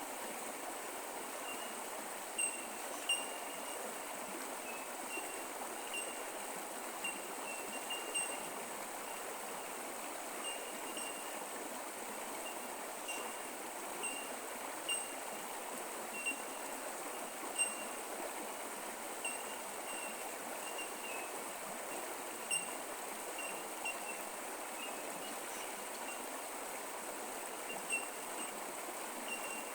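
Creek water flowing and trickling in a steady wash. Short high chirps repeat about once or twice a second over it, with a few brief louder ticks scattered through.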